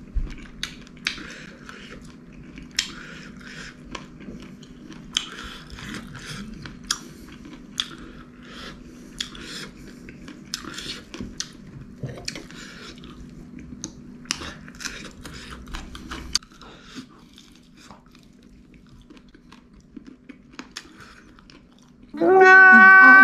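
Close-up chewing and crunching on spicy chicken feet, with sharp clicks from biting into bone and cartilage and short hissing breaths sucked in through the teeth against the chilli heat. Near the end a loud, steady pitched tone cuts in abruptly.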